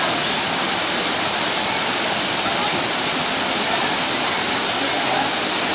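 Steady rush of water, an even hiss that never lets up, with faint voices under it.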